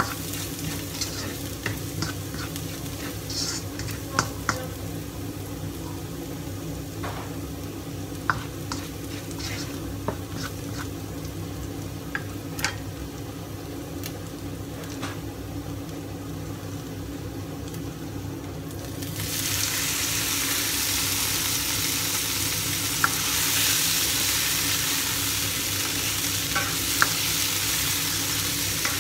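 Diced garlic and ginger sizzling gently in a little oil in a nonstick wok, with scattered clicks from the spatula and popping oil. About two-thirds of the way through, eggplant chunks go into the hot oil and the sizzle suddenly turns much louder and fuller.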